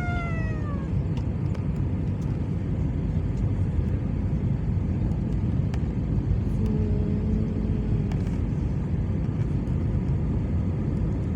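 Steady low rumble of aircraft engine noise. At the very start a short whine slides down in pitch, and a faint steady tone is held for about a second and a half from about six and a half seconds in.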